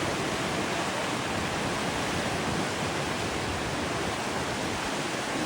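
A river rushing steadily, an even wash of water noise.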